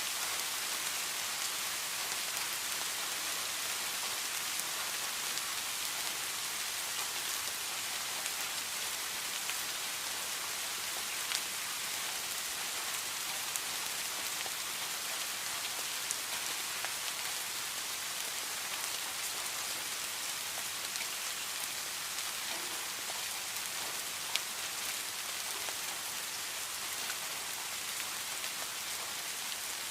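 Steady heavy rain falling, an even hiss with a few sharper drop ticks here and there.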